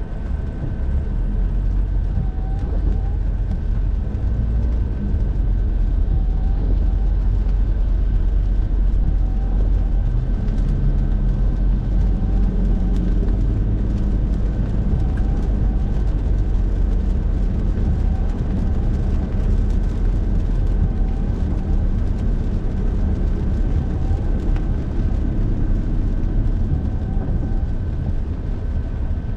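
Steady road and tyre noise from a car driving at speed, with a faint short chirp repeating every couple of seconds and a thin steady tone above it.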